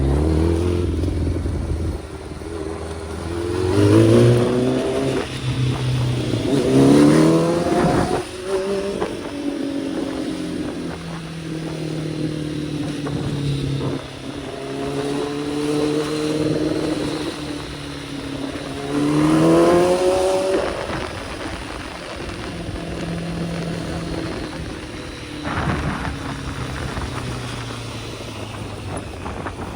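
Kawasaki ZX-10R inline-four sport-bike engine being ridden, revving hard three times with its pitch climbing and falling back after each climb, running steadier in between.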